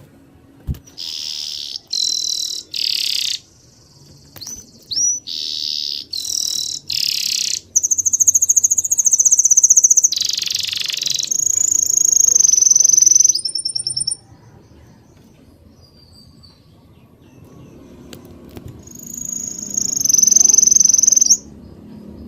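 Songbirds chirping and singing: a string of short, loud chirps, then a long rapid trill and long, high, held notes. After a quieter stretch, one more long high call cuts off suddenly near the end.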